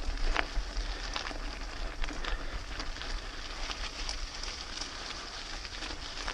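A 2006 Specialized Stumpjumper FSR mountain bike rolling over a wet, muddy trail: steady tyre noise broken by many small crackles and ticks from grit and gravel, with a low wind rumble on the helmet camera's microphone.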